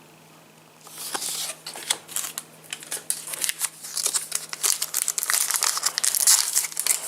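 Foil trading-card packet crinkling and tearing open by hand, starting about a second in as a dense run of irregular crackles.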